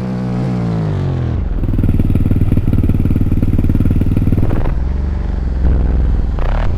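Motorcycle engine running close by. Its pitch falls in the first second, then it runs loud with a fast, chattering exhaust pulse for about three seconds before dropping to a lower, steadier drone.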